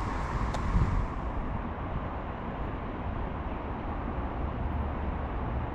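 Road traffic noise: a steady low rumble of vehicles, with a higher hiss that dies away about a second and a half in.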